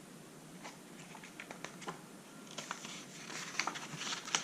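Faint paper rustling and light clicks as a picture book is handled and its page turned, thickening in the second half with a sharper click near the end.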